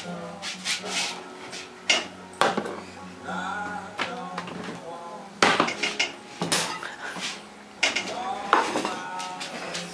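Kitchen pots and utensils clattering and clinking in irregular knocks and clanks, the sharpest about halfway through and again near the end.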